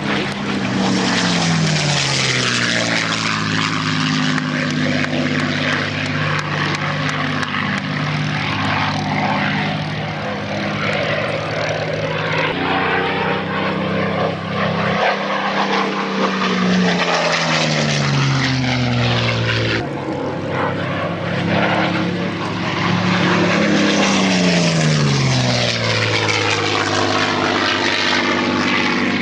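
Piston-engined propeller fighter aircraft making low passes, the engine note loud and dropping in pitch as each one goes by, about three times.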